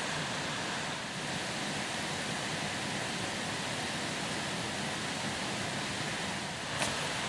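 Steady, even outdoor hiss with no clear pitch or rhythm, and one faint click near the end.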